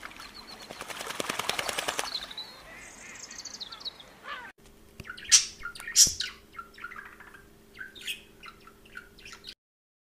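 Bird wings flapping rapidly for about two seconds, followed by high chirps. After a cut about halfway, a string of short, sharp bird chirps over a faint steady hum stops abruptly near the end.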